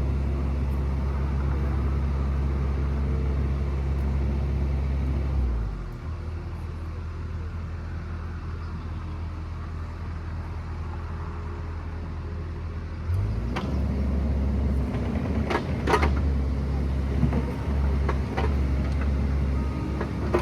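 Excavator diesel engine running steadily. About five seconds in it drops to a lower speed, then throttles back up around thirteen seconds in, followed by several sharp knocks and clanks.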